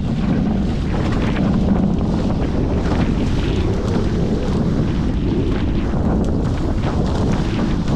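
Steady wind buffeting the microphone, with the rush of water aboard a Hobie 14 catamaran under sail.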